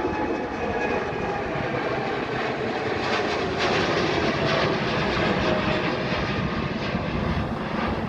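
Twin turbofan engines of a Boeing 787-8 Dreamliner at takeoff power: a steady jet rush with faint engine tones that drift slowly lower.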